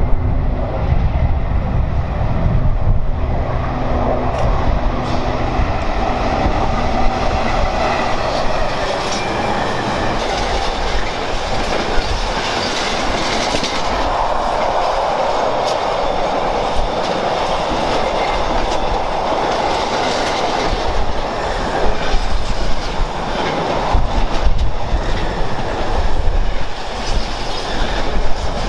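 A Class 70 diesel locomotive's engine drums by at the start, then a long intermodal container train's wagons roll past steadily, wheels clicking over the rail joints.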